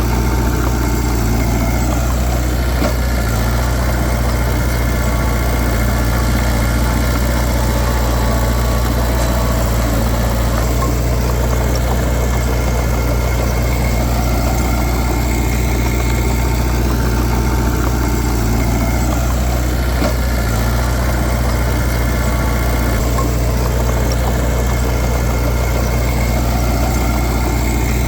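Heavy diesel engine of earthmoving machinery running steadily at an even speed, with a deep, constant hum.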